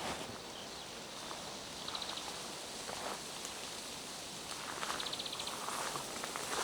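Steady rain hiss in a pine forest with a few soft footsteps on wet ground. Twice, about two seconds in and again about five seconds in, a short high rapid trill sounds.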